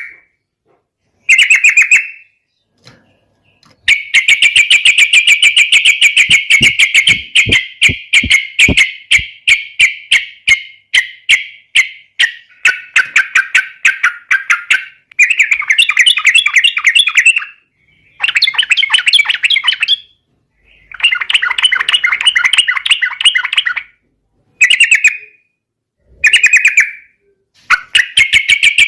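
Yellow-vented bulbul (trucukan) singing in loud bouts of fast, rattling repeated notes, a long rolling run of several seconds near the start followed by shorter phrases with brief pauses between them. This is the rapid 'ropel' song of a bird in full voice ('gacor').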